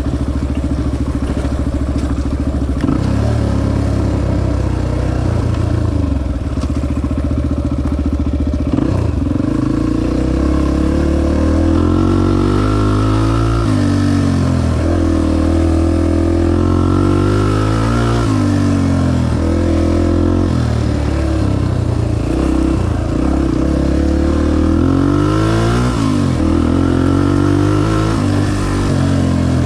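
Honda XR250 dirt bike's single-cylinder four-stroke engine under way, running steadily at first, then revving up and dropping back again and again as the bike is ridden along a trail.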